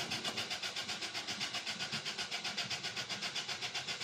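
Starter motor cranking a 1994 Toyota Corolla's four-cylinder engine, an even pulsing of about ten beats a second, without the engine catching: the newly fitted fuel pump is still filling the fuel line.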